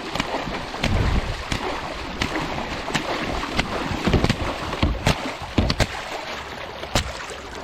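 Water sloshing around a kayak, with irregular sharp knocks and splashes and wind on the microphone.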